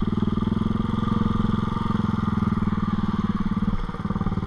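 ATV engine running steadily under throttle in four-wheel drive while pushing into deep water, with an even rapid firing pulse. It eases off briefly about four seconds in.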